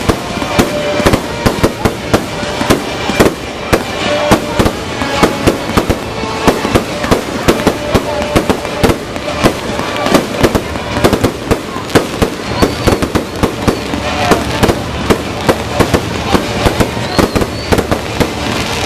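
Fireworks display: a dense, continuous barrage of bangs and crackling from aerial shells bursting overhead, several reports a second.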